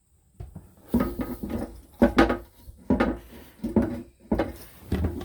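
Hard clunks and knocks, about five in all, each with a short ring: a porcelain toilet tank being rocked on the bowl on its loosened bolts and gasket as it is worked into level.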